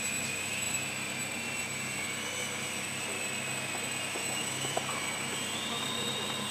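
Small electric motor and propeller of a Kyosho Minium Extra 330SC micro RC plane whining steadily in flight. The pitch rises about five and a half seconds in as the throttle opens.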